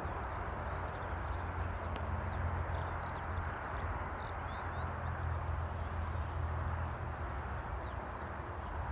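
Small birds chirping repeatedly over a steady low rumble and hiss.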